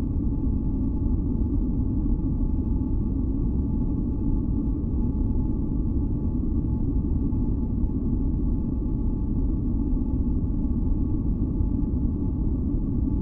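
Continuous synthesized noise for sleep and sound masking, deep and bass-heavy rather than hissy, with a few faint steady tones held above it. It does not change at all.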